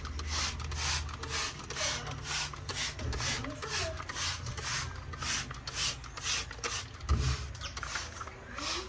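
Rapid back-and-forth scrubbing or wiping strokes during refrigerator cleaning, about three rubbing strokes a second. A single low knock comes about seven seconds in.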